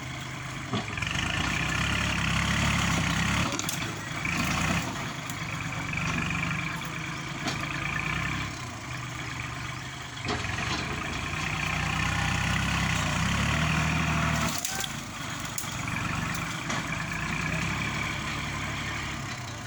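Kubota tractor's diesel engine working under load as it pushes soil, getting louder and easing off again about every four to five seconds.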